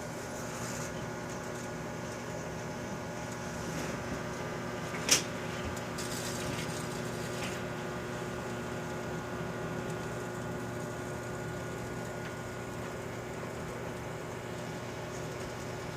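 Microwave oven running with a steady hum, barbecue lighters on fire inside it. A single sharp pop about five seconds in, with a fainter one just before.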